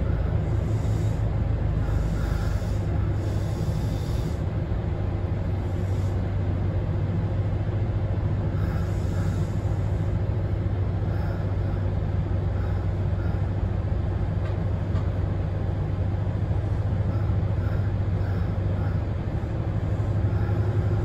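Kintetsu express train's steady low rumble and hum, heard from inside the front car.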